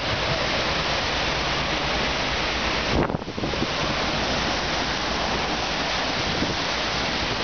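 Steady rush of water from the FlowRider surf simulator's pumped wave, mixed with wind buffeting the microphone, with a brief dip about three seconds in.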